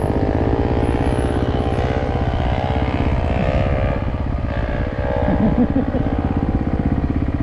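Off-road trail motorcycle engine running under load on a hill climb, its revs rising and falling, easing off briefly just past the middle before pulling up again.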